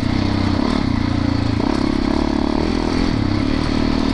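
Yamaha YZ450FX dirt bike's single-cylinder four-stroke engine running under way, its pitch shifting slightly a couple of times as the throttle changes, with wind noise.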